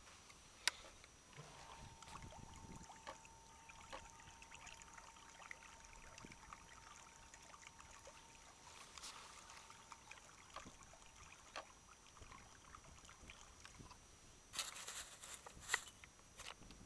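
Faint water trickling and lapping, with the thin steady whine of a small electric bait-boat motor that starts soon after the beginning and stops around the middle. Near the end comes a short cluster of sharp clicks and knocks.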